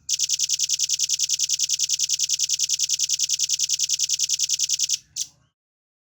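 Velvet-fronted nuthatch giving a fast, even trill of high notes, about ten a second for some five seconds, followed by one short note.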